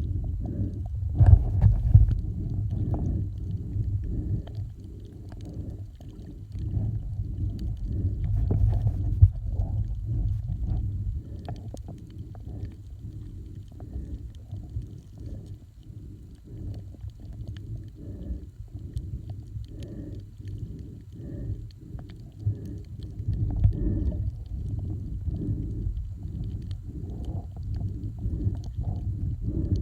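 Muffled low rumbling and sloshing of water, with frequent soft knocks, louder for a moment near the start and again about three-quarters of the way through.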